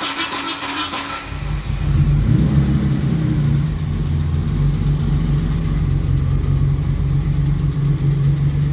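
BMW E30's engine cranked over by the starter for about a second, then catching and settling into a steady idle, its first start-up after the build.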